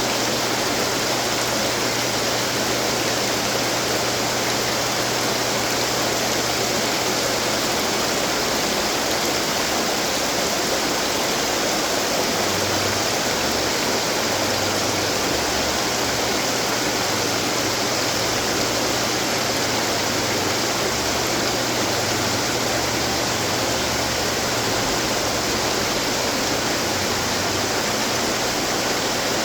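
Water falling and splashing steadily from running garden fountains.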